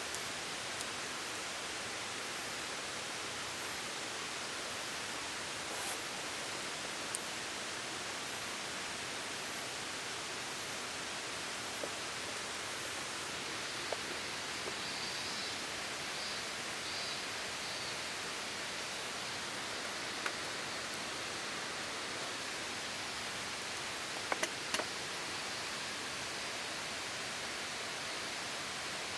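A steady, even rushing noise, with a few faint clicks scattered through it and a short cluster of small knocks about 24 seconds in.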